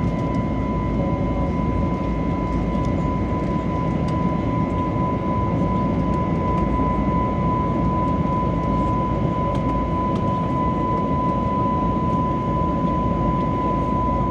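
Airbus A321neo engines at climb power heard from the passenger cabin: a steady, loud rush of engine and airflow noise with a steady high whine.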